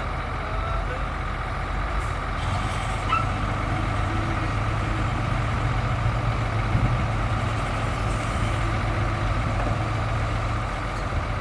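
Heavy diesel earthmoving machinery running steadily under load, with a deeper drone that builds about four seconds in and eases off shortly before the end.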